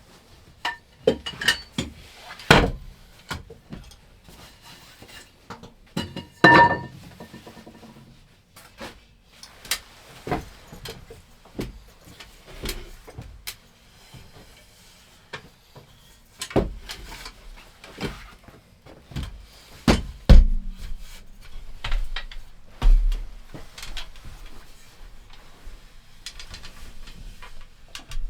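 Irregular knocks, thuds and clatter of objects being handled in a small room, with a short ringing metallic clank about six seconds in and heavier thuds around twenty seconds in.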